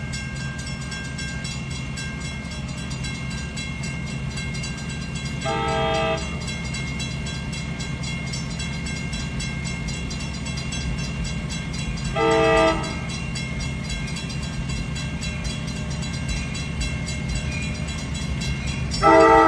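Amtrak Capitol Corridor passenger train rolling slowly past with a steady low rumble. Its multi-note air horn sounds three short blasts about six to seven seconds apart, the last one the loudest.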